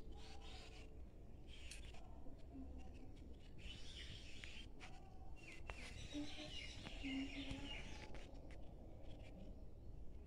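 Faint bird chirps over a low, steady background rumble, with the chirping busiest in the middle of the stretch.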